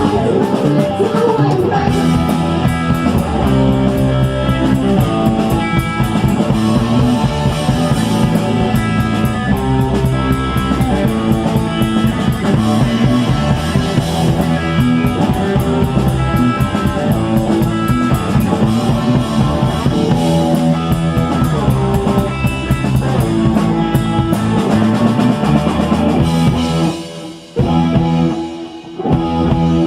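Live rock band playing loudly, with guitar, bass and drum kit. About 27 seconds in, the music breaks into short stop-start hits.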